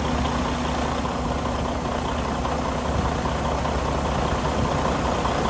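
Freightliner Cascadia's diesel engine idling steadily, just restarted after new fuel valve seals and left running to check for diesel leaks.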